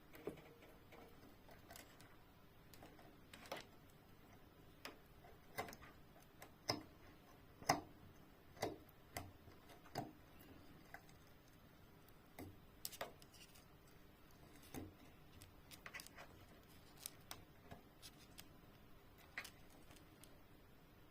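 Plastic cable tie scraping and clicking in a washing machine during cleaning: faint, irregular sharp clicks and taps, about one a second, with the loudest ones in the middle.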